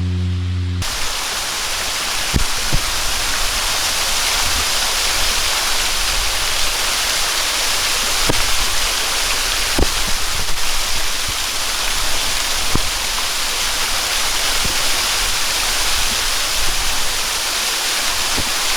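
Waterfall pouring steadily, a dense even hiss of falling water with sharp ticks of splashing here and there. It starts suddenly under a second in, as held music tones cut off.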